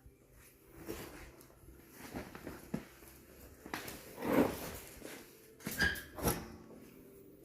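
Firewood being loaded into a wood stove: scattered wooden knocks and clunks, the loudest near the middle and twice in quick succession near the end. A short whining sound rises about four seconds in.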